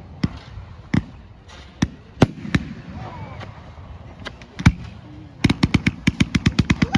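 Fireworks going off: scattered single bangs, then a rapid volley of bangs at about eight a second, typical of a firework cake or barrage.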